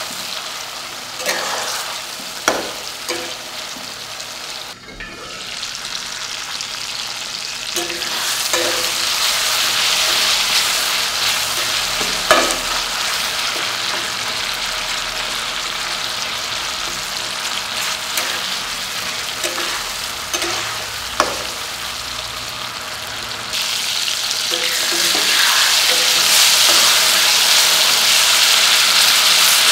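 Small whole tomatoes sizzling in hot oil in a kadai, stirred with a spatula that knocks and scrapes against the pan now and then. The sizzle grows louder about three-quarters of the way through.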